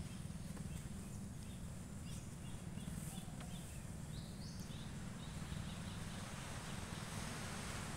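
Birds chirping in short, high calls, scattered through the first half, over a steady low rumble.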